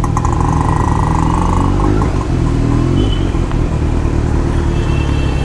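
Motorcycle engine running steadily at a low, even pace, with road noise as the bike rolls through a flooded street.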